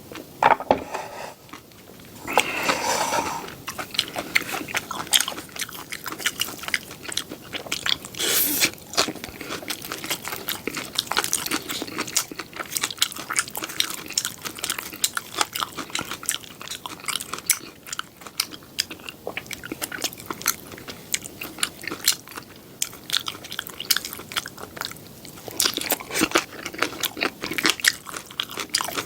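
Close-miked chewing and biting of seafood pajeon: a continuous run of small wet clicks, with louder bites about 3 and 8 seconds in.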